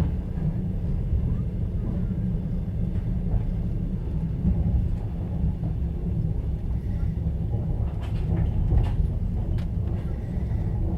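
Steady low rumble of a passenger train's open-plan sleeper carriage running on the rails, heard from inside. A few wheel knocks over rail joints come near the end.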